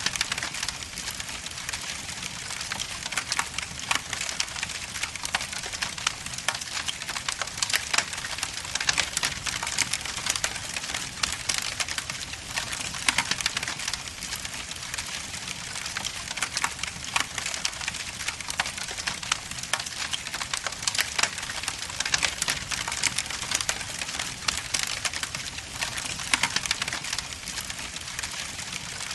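Wood logs burning in a fireplace, crackling with frequent irregular sharp pops and snaps over a steady hiss.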